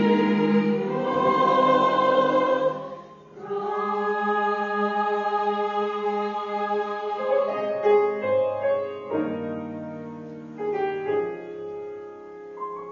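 Church choir singing a Christmas anthem in sustained chords, breaking off briefly about three seconds in and then coming back in, and growing softer toward the end.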